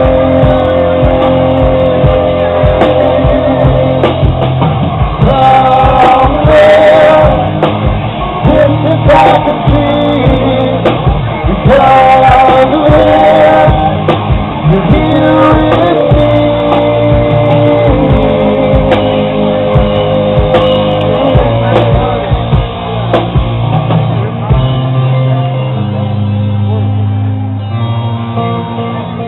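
Rock band playing live, with a sung vocal over guitars, bass and drums. Near the end the heavy low end drops away and the guitar carries on more lightly.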